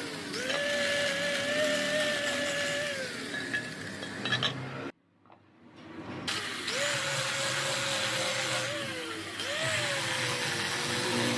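Small electric power tool motor running with a steady whine whose pitch sags when it is pressed into the work. It cuts off about five seconds in and spins back up about a second and a half later.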